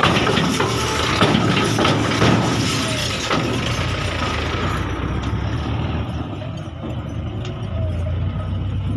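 Belarus 510 tractor's diesel engine running steadily, with a run of knocks and clattering over the first three seconds or so.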